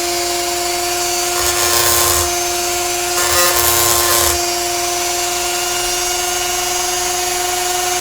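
Handheld rotary tool running at a steady high whine, its grinding bit biting into a metal cast twice for about a second each time, then the motor switched off at the very end.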